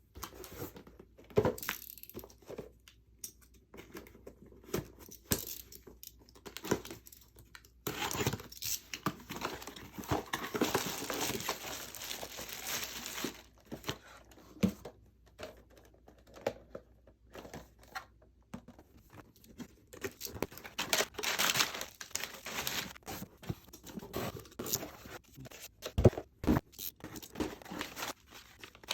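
Packaging being handled and torn open: paper or plastic crinkling and tearing, with small irregular clicks and knocks.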